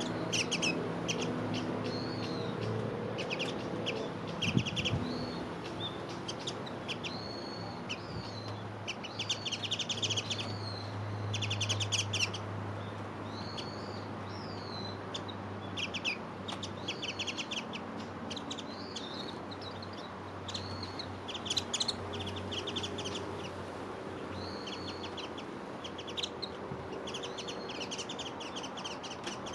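Small wild birds chirping and calling: many short, high calls and quick twittering runs, some with a little rise and fall in pitch, coming in clusters all through, over a steady low hum.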